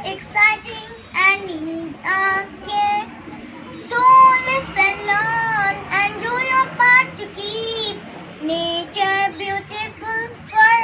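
A young girl singing a poem in a high, sing-song voice, phrase after phrase with held notes rising and falling.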